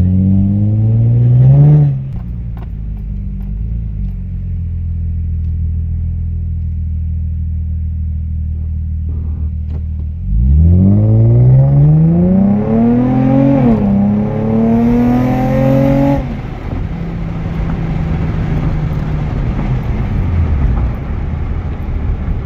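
Infiniti G35's V6 with a modified cat-back exhaust, accelerating. A rev rising in pitch drops back about two seconds in to a steady drone. About ten seconds in the engine pulls hard, rising in pitch, dips briefly at a gear change, and climbs again to about 5,500 rpm. It then lifts off to a steady drone.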